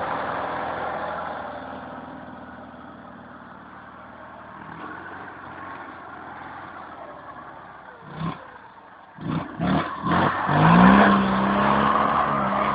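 Tractor engine running, fading down over the first few seconds. Near the end come a few short sharp bursts, then the engine revs up, its pitch rising and holding.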